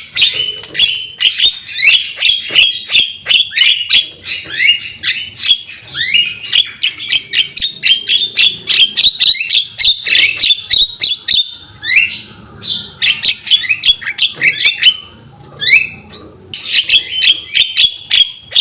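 Javan myna (jalak kebo) singing vigorously: a fast, loud run of sharp rising chirps and squawks, broken by a couple of short pauses in the second half.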